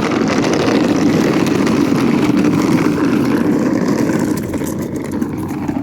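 Child's ride-on toy truck driving fast over a concrete sidewalk, making a steady rolling rumble that eases off a little near the end.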